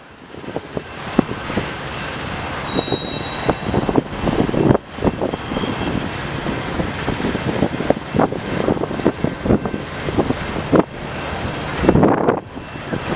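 Freight train rolling past at trackside: a steady rumble of boxcars and tank cars on steel wheels, with frequent sharp clacks and knocks from the wheels on the rails.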